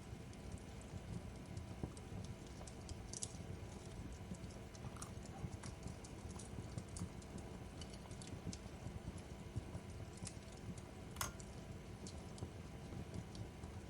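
Wood fire crackling in a fireplace: irregular sharp pops and snaps over a low steady rumble, with one louder pop about eleven seconds in.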